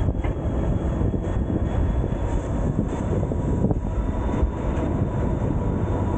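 White Pass & Yukon Route passenger train rolling along the track: a steady low rumble of the car's wheels on the rails, with wind on the microphone and a faint steady whine above it.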